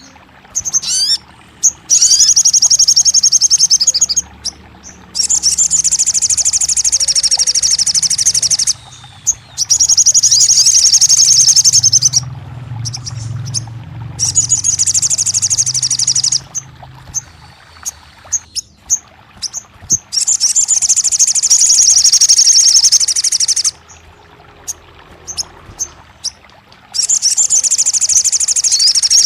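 A sogon songbird singing in repeated bursts of a fast, high trill. Each burst lasts a few seconds, with short pauses between them.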